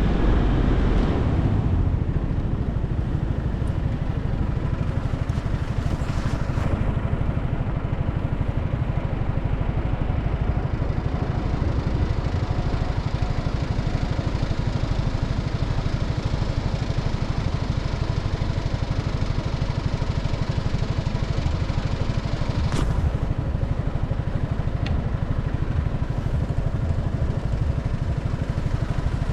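Motorcycle running on the road at a steady cruising speed, with wind rushing across the microphone. Two brief clicks come about three-quarters of the way through.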